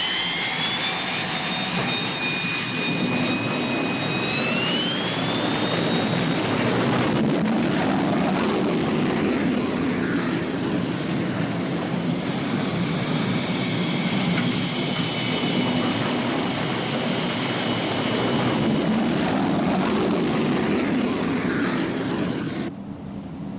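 A-4 Skyhawk jet engine at high power: a high whine rising in pitch over the first few seconds, then a loud steady jet noise that cuts off abruptly near the end.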